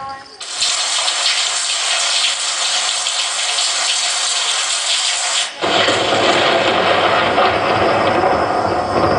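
Recorded rain sound effect: a steady hiss of rain, joined about five and a half seconds in by a deep rumble as it swells into a heavier thunderstorm downpour.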